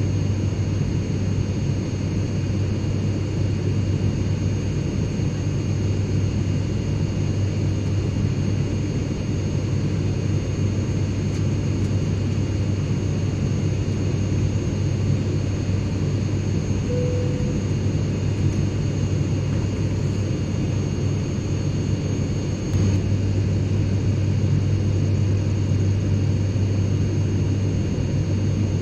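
Airplane cabin noise: a steady low rumble and hiss with a few faint high steady tones, stepping up slightly in loudness about 23 seconds in.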